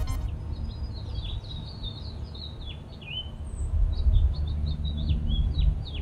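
Several songbirds chirping and singing in quick, short downward-sweeping notes, over a low uneven rumble that grows louder about four seconds in.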